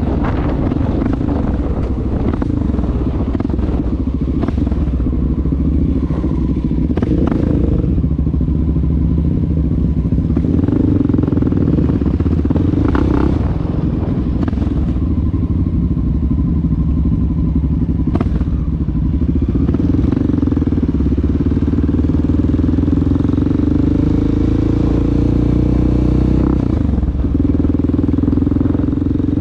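Honda XR650L dual-sport motorcycle's single-cylinder four-stroke engine running under way on the road, its note shifting up and down a little, with a few knocks from the ride. Near the end the engine note drops briefly and then comes back up.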